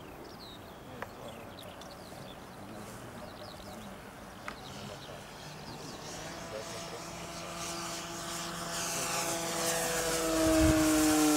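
Electric RC model Cessna 182's motor and propeller whine growing louder as the plane flies in. The pitch sinks slowly as it passes close near the end.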